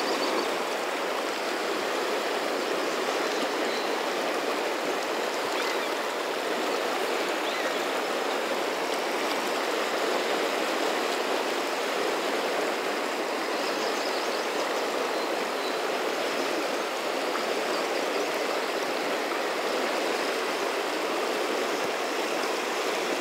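Steady rush of a large, fast-flowing river current.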